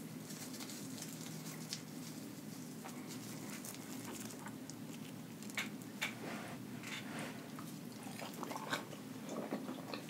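Close-up chewing of a Flamin' Hot Cheeto-coated fried chicken wing, with small crunches and mouth clicks that come more often after about five seconds. A steady low hum runs underneath.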